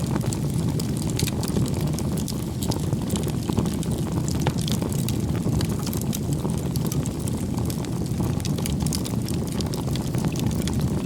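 Firewood burning in a bonfire: a steady low rumble of flames with frequent small, sharp crackles and pops from the burning wood.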